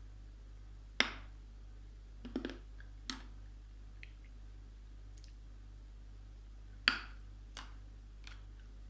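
Crisp, sharp snaps of pieces of edible chalk being bitten or broken close to the microphone, the loudest about a second in and again near seven seconds, with a quick cluster and softer clicks between.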